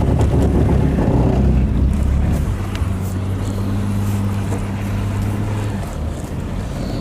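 A powerful rear-wheel-drive car's engine working hard as the car is driven around a grass field. It settles into a steady note after about two and a half seconds and eases off slightly near the end.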